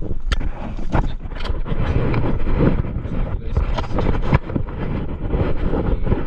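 Loud rumbling, rustling noise with a few sharp metallic clicks and knocks as a battery cable is fitted to a truck battery.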